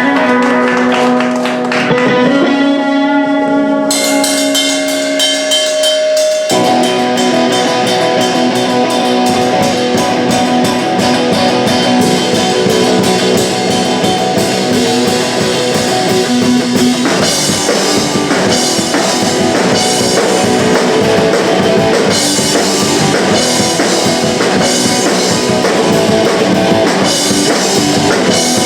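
Live punk rock band playing: electric guitar alone at first, the drum kit coming in about four seconds in, then the full band playing loud.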